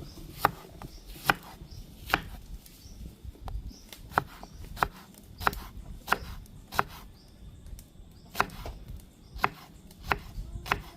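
Kitchen knife chopping an onion on a cutting board: sharp, separate knocks of the blade on the board at an uneven pace, about one a second.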